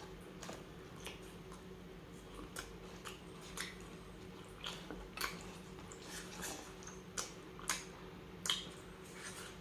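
Mukbang eating sounds from a person eating tuna sisig: about ten irregular, sharp wet mouth clicks and smacks while chewing. A faint steady hum runs underneath.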